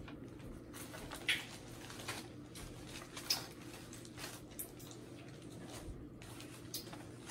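Close-miked eating sounds: scattered chewing and lip smacks as chicken wings are eaten and food is picked from a paper-lined takeout container, over a faint steady hum.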